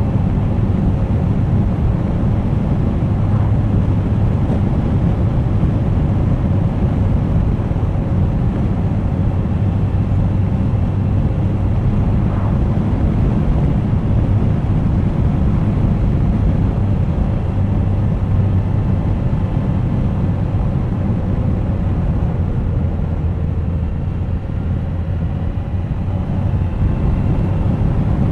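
Suzuki GSX1250FA's inline-four engine running steadily under way, mixed with wind rush over the camera microphone; the sound eases briefly near the end.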